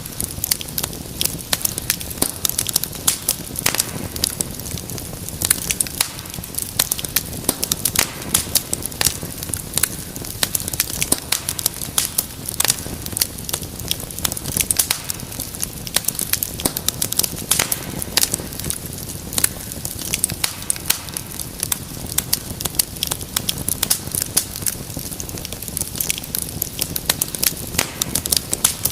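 Wood fire burning in a fireplace, crackling and popping with many irregular sharp snaps over a low steady hiss of flame.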